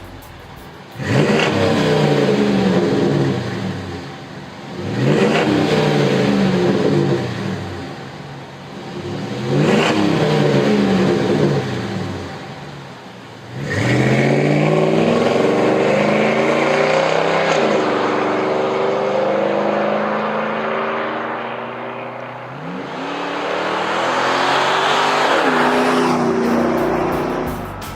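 Dodge Ram 5.7L Hemi V8 through a Flowmaster American Thunder stainless cat-back dual exhaust, revved five times, each time rising in pitch and falling back. Three short revs come first, then a longer one that is held for several seconds near the middle, then a last rev near the end.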